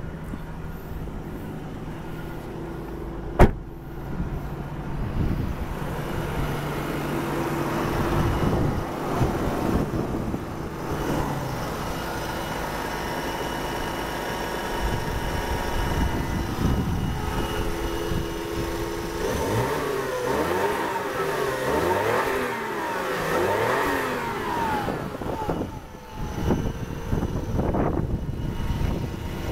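Toyota Cresta Tourer V's 1JZ-GTE 2.5-litre twin-turbo straight-six idling steadily, with a single sharp knock a few seconds in. In the last third the engine is revved up and let fall back several times in a row.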